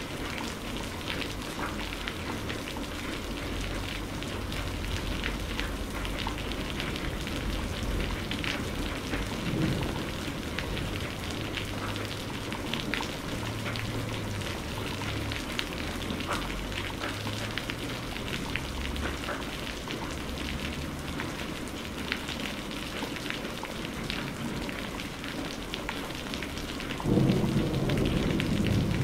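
Steady rain falling, with many separate drop ticks through the hiss. About two seconds before the end, a low rumble of thunder sets in and grows louder.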